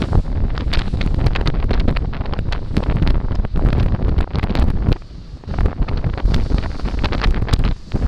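Loud, gusty wind buffeting the microphone on a moving boat, dipping briefly about five seconds in.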